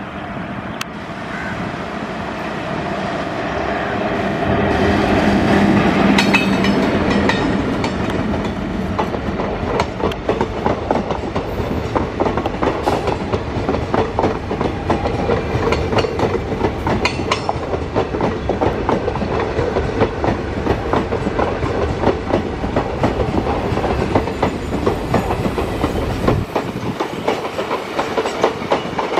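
A passenger train hauled by an electric locomotive passing at speed: the sound rises as the locomotive nears and goes by around five to seven seconds in, with a low hum, then a steady clickety-clack of coach wheels over rail joints as the coaches roll past.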